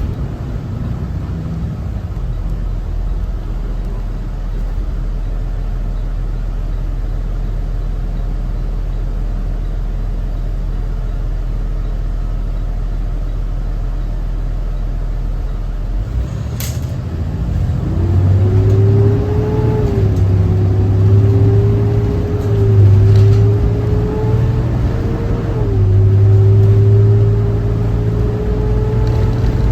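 Cummins ISB 6.7 diesel engine of a Thomas Saf-T-Liner C2 school bus, heard from on board. It hums steadily at idle for about half the time, then after a click the bus pulls away, the engine pitch rising and stepping down three times as it shifts up.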